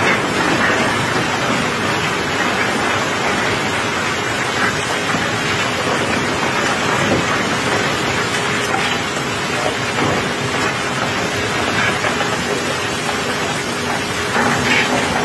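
Steady rain falling on a wet steel barge deck: an even, unbroken hiss, with a faint steady hum underneath.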